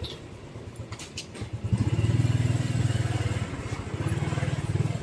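A vehicle engine running with a low, rapid pulse, growing louder about two seconds in and staying up.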